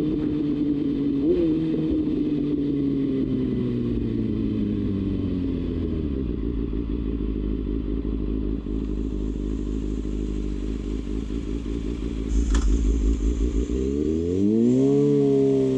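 Kawasaki Ninja ZX-6R's inline-four engine with the revs falling steadily as the bike slows. It then runs low and uneven for several seconds. A sharp click comes about three-quarters of the way through, then the revs climb again as it pulls away.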